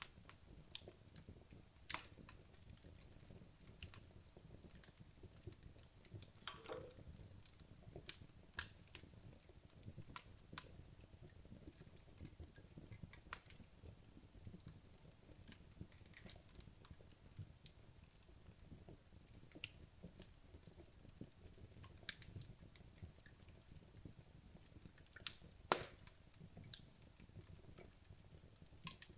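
Wood logs burning in a fireplace: sparse, sharp crackles and pops over a soft, low rustle of flame. The loudest pops come about two seconds in, near nine seconds and near the end, with a brief hiss around seven seconds.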